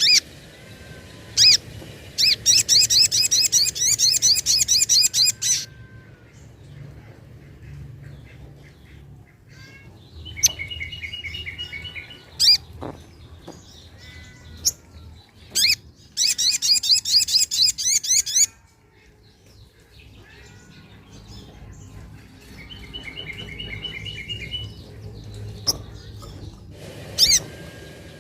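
Sogok ontong (little spiderhunter) singing: two loud, very fast high trills of about three seconds each, with quieter, lower chattering trills and single sharp call notes between them.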